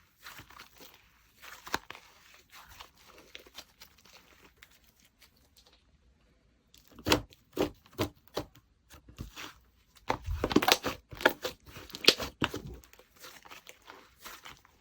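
Slime being squished and stretched by hand, making sticky crackles and pops: faint at first, a brief pause, then louder sharp pops from about seven seconds in and a dense crackling stretch around ten seconds.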